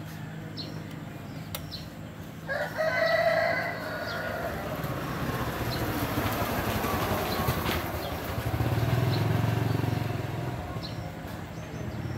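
A drawn-out bird call lasting about two seconds, starting a couple of seconds in, over a steady low hum. A low rumble swells later on.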